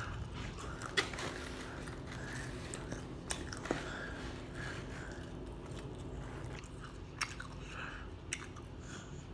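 A person chewing fried fast food, with a few sharp crunches and clicks scattered through.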